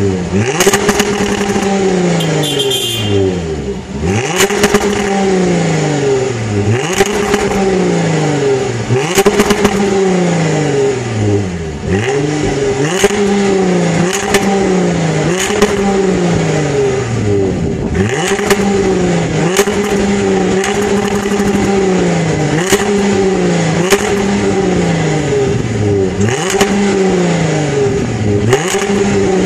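Jaguar F-Type's supercharged 3.0-litre V6 being revved repeatedly while the car stands still, heard from the exhaust. About a dozen blips come roughly every two seconds: each climbs quickly, then the revs fall away slowly, with a sharp crack from the exhaust as the throttle closes.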